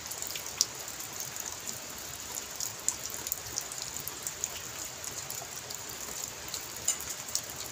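Steady rain falling, with scattered sharp ticks and clicks over the hiss.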